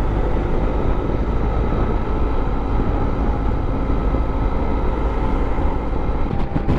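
Motorcycle running at road speed, its engine hum under steady wind rush on the helmet microphone.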